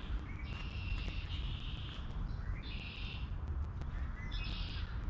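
Songbirds chirping in several short bouts of a second or less, over a constant low rumble and the footsteps of a person walking.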